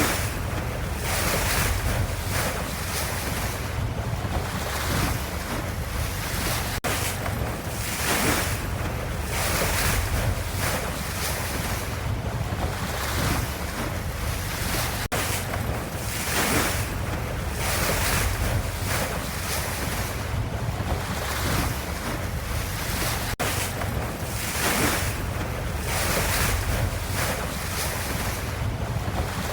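Ocean waves washing in steady, overlapping swells over a deep rumble. A short stretch of about eight seconds repeats, each loop joined by a brief dropout.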